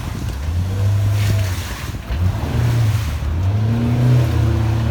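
Pontoon boat's outboard motor running low and steady, then throttled up about two and a half seconds in as the boat is driven onto its trailer.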